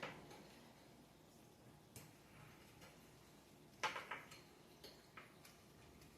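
Near silence broken by a few faint clicks and taps of a mini greenhouse's frame parts being fitted together by hand: one about two seconds in, a small cluster near four seconds, and two more shortly after.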